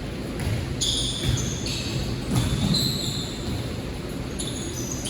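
Sounds of a basketball game in a gym: a ball bouncing with a few thumps, and short high-pitched squeaks of sneakers on the court floor, over the hall's low rumble.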